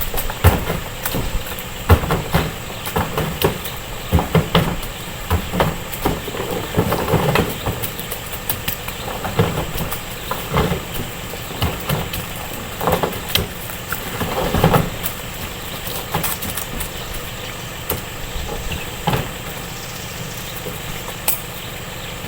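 A motor running steadily, with irregular knocks and clatter throughout.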